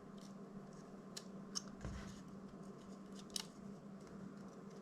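A few faint, sharp clicks and light scrapes of a small hand tool prying at the plastic frame of a DJI Mini 2 drone, working loose a part held in with silicone, over a faint steady hum.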